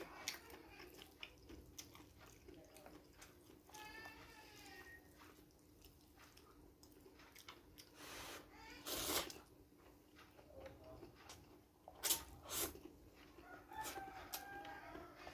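A rooster crowing faintly in the background, twice: once about four seconds in and again near the end. Scattered small clicks and crunches of eating run under it, with a few louder knocks in the middle.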